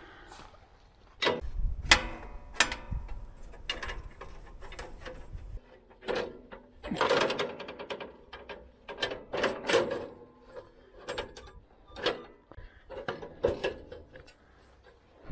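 Irregular metallic clanks, clicks and rattles of hand work on a Woodland Mills HM122 sawmill's band blade and blade wheels during a blade change, with a low rumble in the first few seconds.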